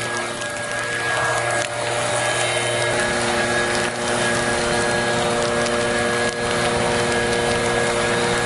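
A machine running steadily: a loud, even rushing noise with several held hum tones, whose pitches shift about three seconds in.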